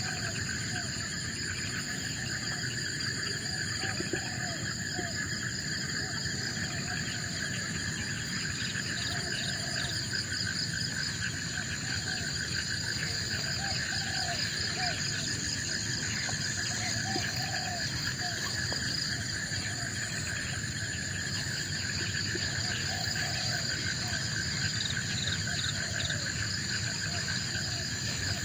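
A steady chorus of insects, crickets and similar, trilling at several pitches at once. Short, low, arching calls from another animal repeat every couple of seconds underneath.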